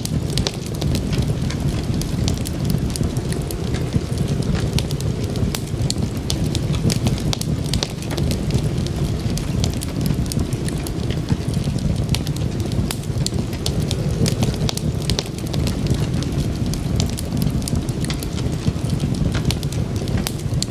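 Wood fire crackling: frequent small sharp pops over a steady low rumble.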